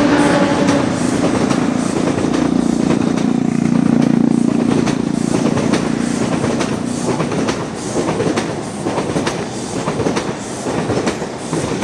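Talgo passenger train passing at speed, its wheels clacking rhythmically over the rail joints. A steady low hum runs under it for the first seven seconds or so, then fades, leaving the clicks.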